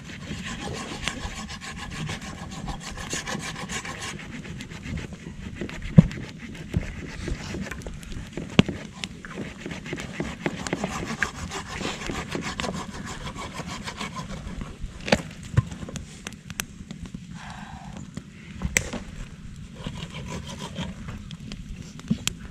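Hand saw cutting through wood in steady back-and-forth strokes, with a few sharp knocks in between.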